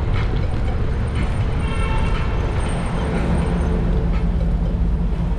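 City street traffic: a steady low rumble of vehicle engines and road noise, with a short car horn toot about one and a half seconds in.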